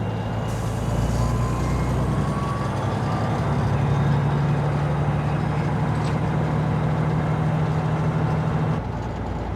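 Semi truck's diesel engine heard from inside the cab, pulling in gear during a manual shifting lesson. The engine note climbs a few seconds in, holds steady, then drops off near the end as the throttle is let off for the next shift.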